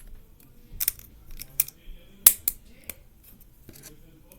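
Plastic Lego bricks being handled and pressed into place: a scatter of sharp, separate clicks, the loudest a little past two seconds in.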